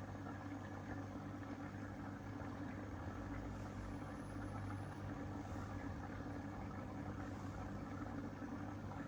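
Steady low electric hum of an aquarium pump running, with a faint even hiss.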